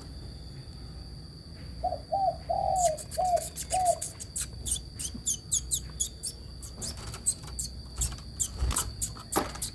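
Long-tailed shrike (cendet) calling: a run of five short, arched low notes about two seconds in, then many quick, sharp high chirps and ticks to the end.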